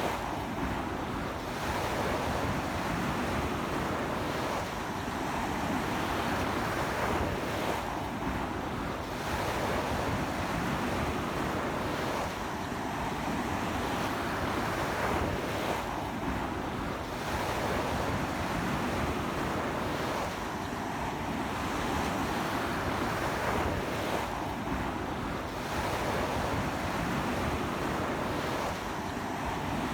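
Ocean waves breaking and washing up a beach in a strong sea wind, a continuous rush of surf that swells and eases every few seconds, with wind buffeting the microphone.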